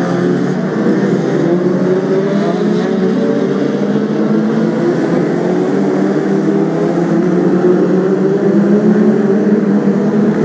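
Several BriSCA F2 stock car engines running together on the track: a steady, loud drone of overlapping engine notes that drift slightly up and down in pitch.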